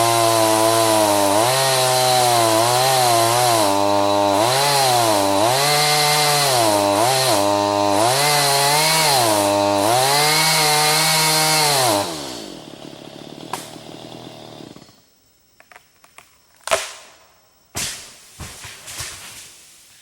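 Two-stroke chainsaw cutting green ash, its engine pitch dropping and recovering again and again as it bogs under load: the saw is too small for the wood. About twelve seconds in it is shut off and winds down, followed by a few sharp knocks.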